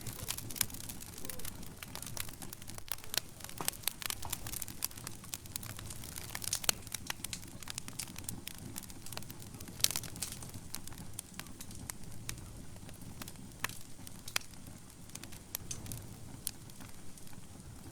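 Fire burning in a fireplace: dense, irregular crackling with sharp pops over a low steady rumble, with a few louder pops scattered through.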